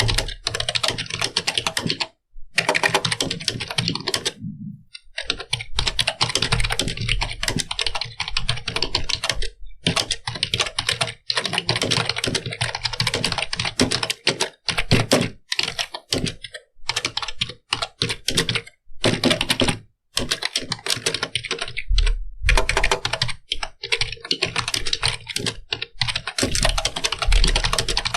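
Typing on a computer keyboard: a fast, continuous patter of keystrokes, broken by brief pauses now and then.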